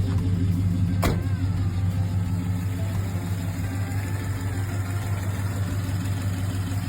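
Car engine idling steadily, with a single sharp click about a second in.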